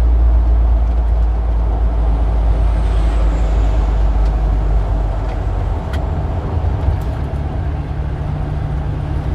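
Street traffic with a heavy vehicle's engine rumbling close by. The rumble eases off about six seconds in, and a few sharp clicks come around then.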